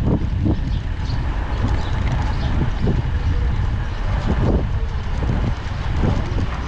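Motorcycle riding on city streets: the engine runs steadily under a low rumble of wind on the microphone, with a few short knocks.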